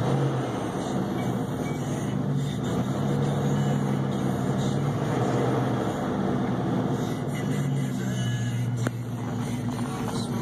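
1996 Jeep Grand Cherokee's engine running steadily, heard from inside the cabin, revved lightly from idle to around 2000 rpm and back.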